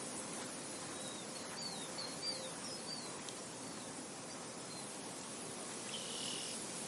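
Steady wind noise over a field, with small birds chirping: a run of short, high chirps between about one and three seconds in, and a brief call near the end.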